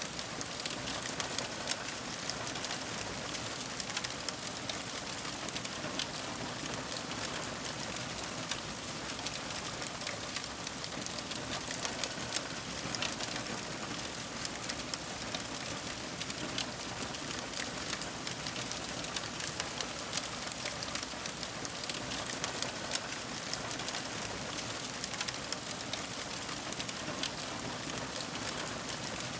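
Wood fire crackling: a steady hiss dotted with many small, sharp pops.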